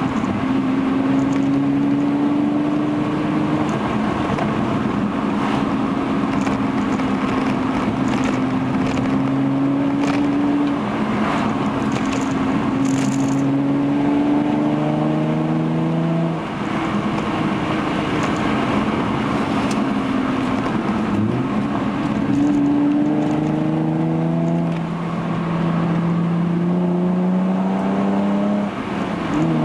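Hyundai Genesis Coupe's 3.8-litre V6 through a Young Motors cat-back exhaust, heard from inside the cabin while driving. The engine note climbs slowly and drops at each gear change, several times over.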